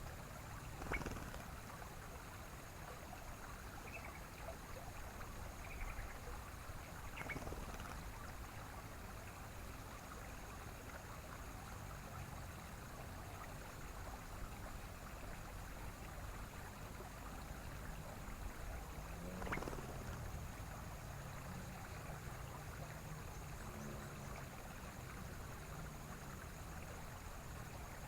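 Steady rush of flowing stream water, with a few brief faint calls and three short falling sweeps scattered through it.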